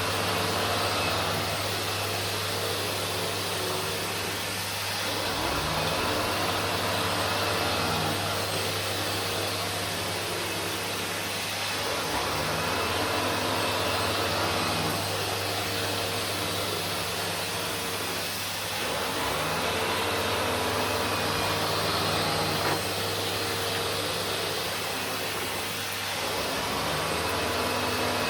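Vacuum cleaner running steadily, its sound rising and falling in slow waves every six or seven seconds.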